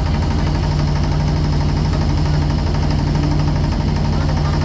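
Boat engine running steadily with a fast, even low throb.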